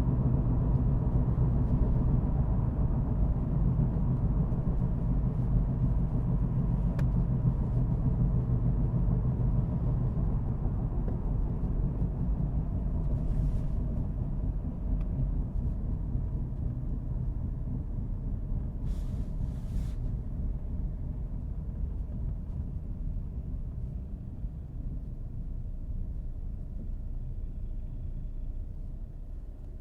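Car driving, a steady low rumble of engine and road noise that gradually dies down over the second half as the car slows.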